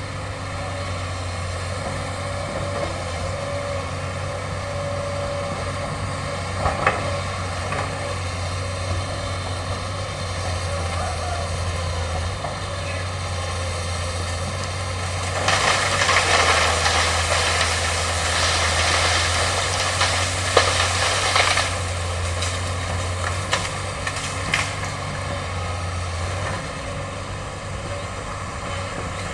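Excavator's diesel engine running steadily, with a louder rush of noise lasting about six seconds past the middle and a few short, sharp knocks or cracks.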